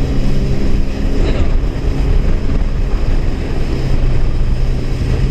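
Honda jet ski engine running steadily under way, a constant drone over rushing water, with wind buffeting the microphone.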